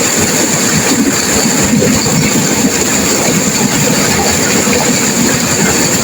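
Turbulent river water rushing and crashing, a loud steady noise without pauses.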